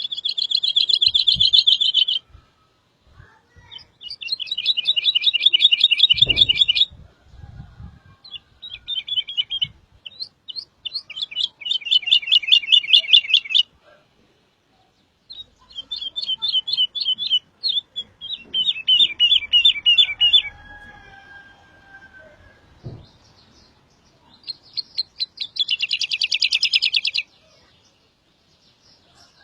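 A songbird singing a series of fast trills. Each trill is a quick run of repeated high notes lasting two to three seconds, and about six come one after another with short pauses between.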